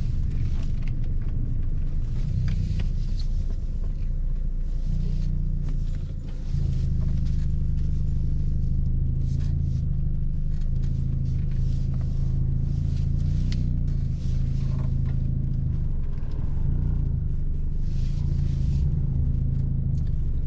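Mazda MX-5 NC's four-cylinder engine and freshly repaired exhaust droning steadily while driving, with a brief dip about six seconds in. It is a low, restrained exhaust note that the owner finds not loud: "bonito, elegante".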